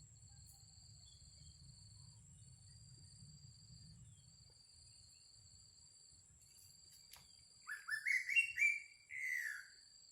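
Greater racket-tailed drongo calling: about two-thirds of the way in, a short phrase of quick rising notes, then one longer falling note. Under it, a steady high insect drone.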